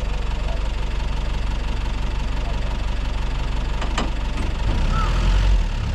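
Safari jeep's engine running with a steady low rumble, growing louder about four and a half seconds in.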